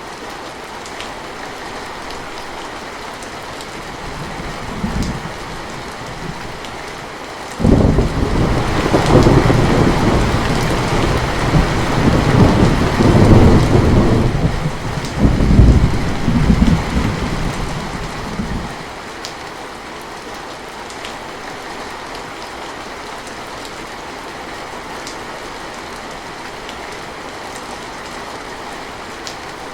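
Steady rain falling, with a brief low rumble of thunder, then a long roll of thunder that breaks in suddenly about a quarter of the way through. The roll rumbles for about ten seconds with two louder peaks before it dies back to the rain.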